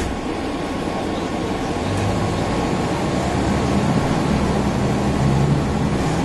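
Interior sound of a Mercedes-Benz O405N city bus: the diesel engine running under the steady rush of the air conditioning. The engine note grows louder about two seconds in.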